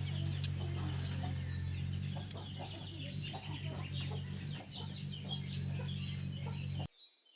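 Chickens clucking over a steady low hum; it all cuts off abruptly near the end, leaving only faint high chirps.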